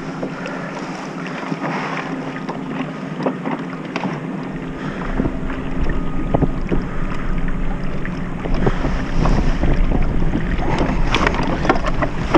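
Wind buffeting the microphone on a kayak on open water, with water against the hull and scattered light knocks and clicks. The low wind rumble picks up about a third of the way in.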